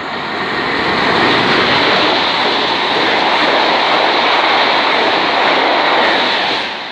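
Loco-hauled express train with a Class 90 electric locomotive passing through the station at speed without stopping: a loud, steady rush of wheels and air. It builds over the first second and fades near the end as the train goes by.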